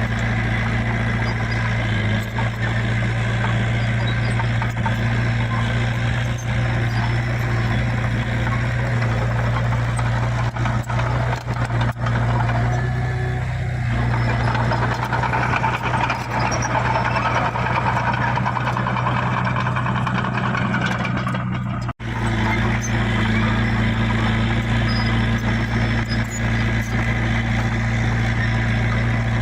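Heavy diesel earthmoving machinery running steadily under work, with a deep steady engine drone. The sound changes in the middle and cuts out abruptly for an instant about two-thirds of the way through.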